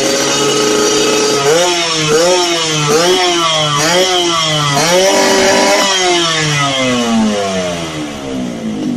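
Yamaha RX-King's single-cylinder two-stroke engine running through an aftermarket exhaust: a steady idle, then about five quick throttle blips, a longer rev, and the revs sinking slowly back toward idle near the end.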